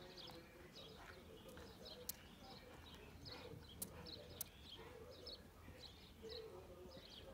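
Faint songbirds chirping over and over, with three sharp clicks near the middle.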